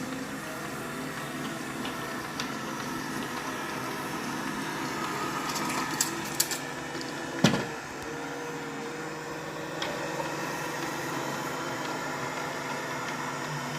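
Budget robot vacuum cleaner running with a steady motor whirr, a few sharp clicks around six seconds in and one loud knock about a second later.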